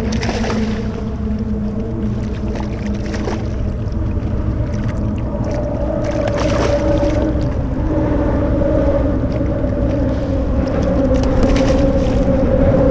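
A motor hum, two steady tones whose pitch steps up a little about halfway through, over a low rumble of wind on the microphone.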